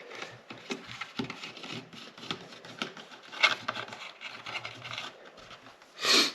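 Small scattered clicks, rubs and crinkles of a rubber seal being worked onto a plastic car tail light unit, with a brief louder rustle near the end.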